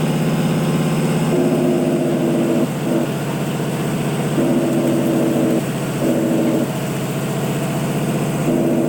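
Heavy truck's diesel engine running steadily with a low, pulsing note. A higher steady tone comes in over it for a second or so at a time, four times.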